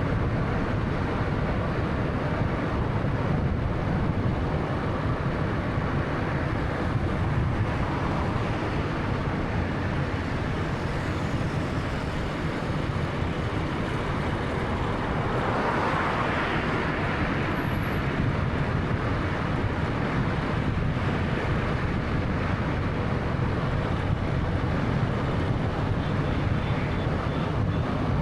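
Road noise of a 2013 Honda Fit with its 1.3-litre engine on the move: a steady rumble of tyres and engine, with a brief swell of louder noise about halfway through.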